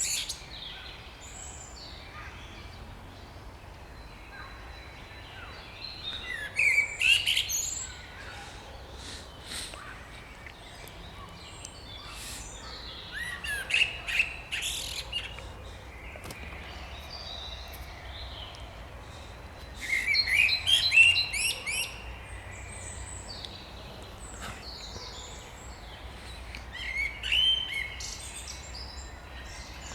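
Spring birdsong: songbirds singing, with a loud burst of rapid chirping phrases of about two seconds roughly every seven seconds and fainter chirps between them. A faint steady low rumble runs underneath.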